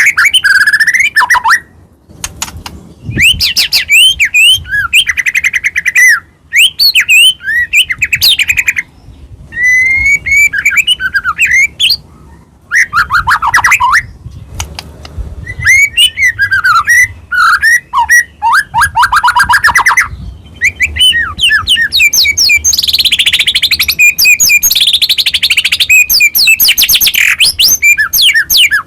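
White-rumped shama (murai batu) singing a loud, varied song: whistled phrases, quick sweeps and fast trills of repeated notes, broken by short pauses, with a long harsh chattering run near the end.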